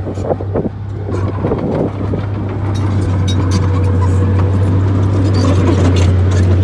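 Bulldozer's diesel engine running under load with a steady low drone, getting a little louder after about two seconds, with scattered metallic clanks and rattles over it.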